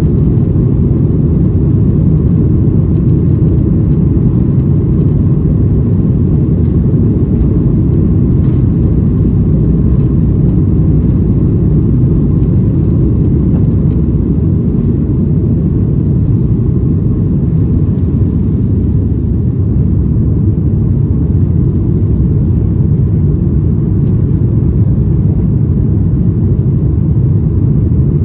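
Cabin noise inside a Boeing 737-900ER: a loud, steady low rumble from its CFM56 jet engines and the airflow around the fuselage.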